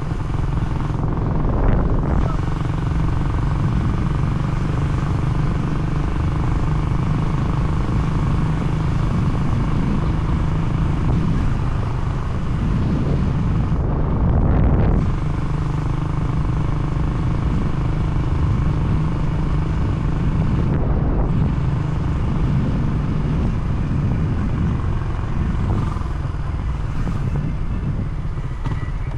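A vehicle engine running steadily while under way, with a dense rumble of road and wind noise; there are brief easings at about 14 and 21 seconds.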